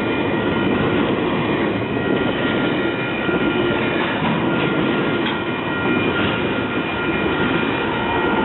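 A train rolling past close by: a steady, loud rumble of wheels and cars on the rails, with thin, steady high ringing tones running over it.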